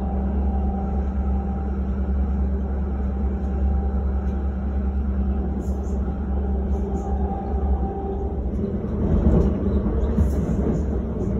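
Inside a commuter train carriage: the train's steady low rumble and hum, getting louder and rougher about eight seconds in.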